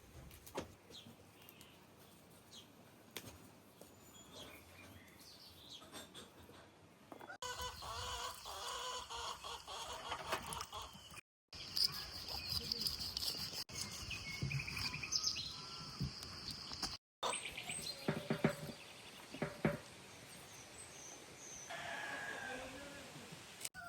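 Chickens clucking with high chirping, quiet at first and louder from about a third of the way in.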